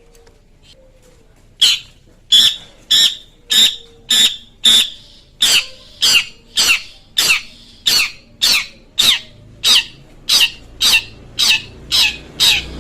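Long-tailed shrike (cendet) giving a long series of short, harsh, scratchy calls at a steady rate of a little under two a second, starting about a second and a half in.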